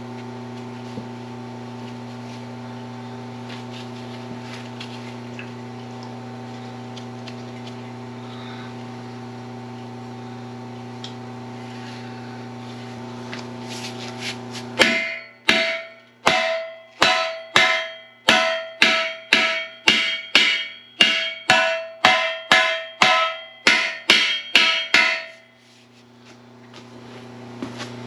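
Steady machine hum, then about twenty ringing hammer blows on steel parts, roughly two a second, starting about halfway through and stopping a few seconds before the end.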